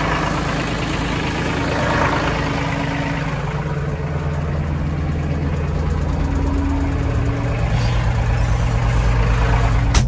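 Tractor engine running steadily; its note shifts about two-thirds of the way through. A single sharp click comes right at the end.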